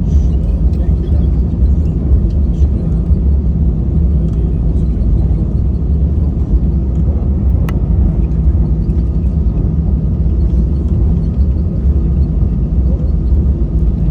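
Steady low rumble of an Airbus A320's engines and airflow heard inside the passenger cabin, holding an even level, with one short click about halfway through.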